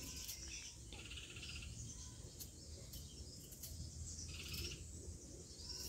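Faint bird chirps and short trills in several bursts, over a low rumble, with a few soft clicks.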